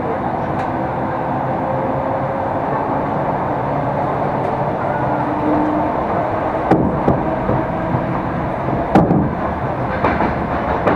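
Electric commuter train running, heard from inside the carriage: a steady rumble of wheels on the track with a faint whine, and two sharp knocks in the second half.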